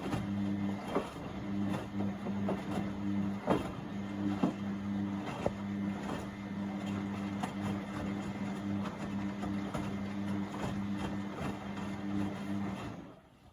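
Beko WMB71642W washing machine tumbling its load in the 30° wash: a steady drum-motor hum with irregular knocks from the laundry turning in the drum. The motor stops near the end as the drum pauses between turns.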